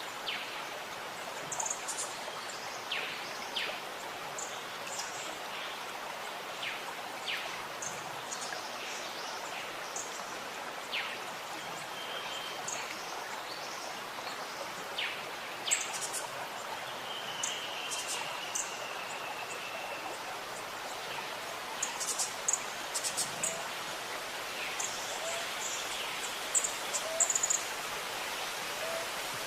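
Steady gurgling of running water with small birds chirping over it: short high calls scattered throughout, one longer trill about halfway through, and busier calling near the end.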